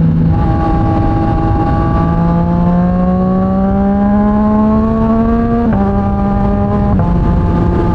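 Yamaha MT-09 SP's inline three-cylinder engine through a Mivv X-M50 aftermarket exhaust, heard from the moving bike. The engine note climbs slowly as the bike pulls in gear, drops sharply about two-thirds of the way in, then steps down once more shortly after, as at gear changes. A steady low rush of wind noise runs underneath.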